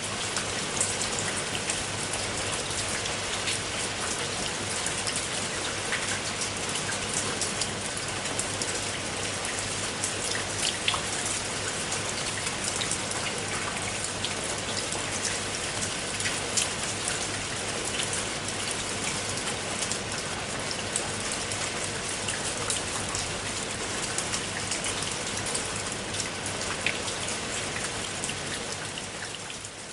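Steady rain: a constant hiss with many individual drops striking a surface as small sharp hits. The sound dips briefly at the very end and comes back.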